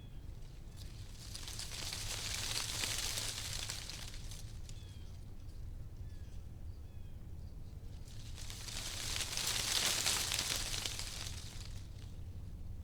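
Wind gusting through tree leaves, the rustle swelling and fading twice, with a steady low rumble beneath. A few faint short chirps sound in the lull between the gusts.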